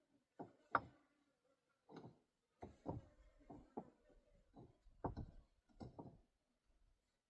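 A series of faint, irregularly spaced knocks and clicks, about a dozen, from hard objects being handled and knocked together.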